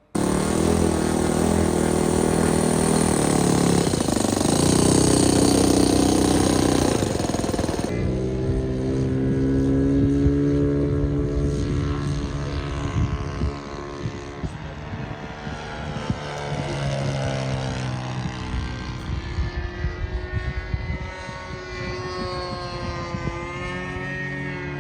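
Engine of a radio-controlled P-51 Mustang scale model aircraft. It runs loud and steady for the first several seconds. After a sudden change about eight seconds in, its pitch rises and falls repeatedly as the model flies past.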